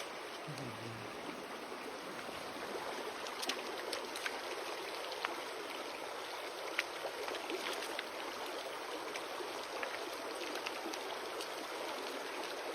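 Steady rush of a flowing river, with a few small clicks scattered through it.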